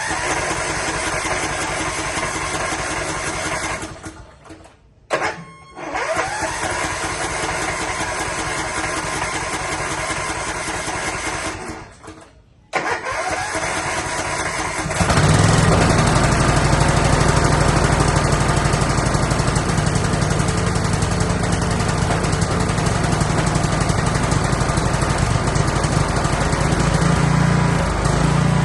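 Riding lawn mower engine running steadily, breaking off twice briefly in the first half, then getting louder and deeper about fifteen seconds in.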